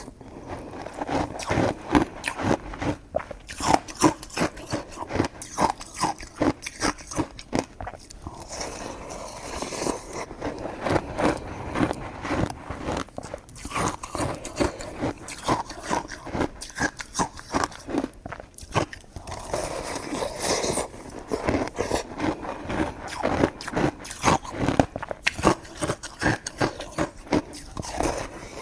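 Close-miked chewing and biting of coconut-coated sticky rice cake: a dense, irregular run of short mouth clicks and smacks.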